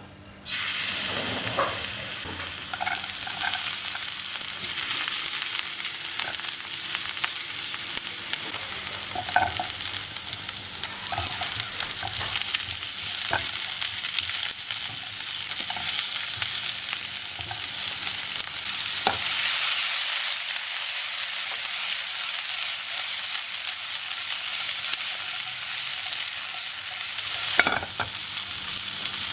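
Food sizzling in hot oil in a frying pan, starting suddenly about half a second in and then hissing steadily. It is being stirred, with occasional light taps and scrapes of a utensil against the pan.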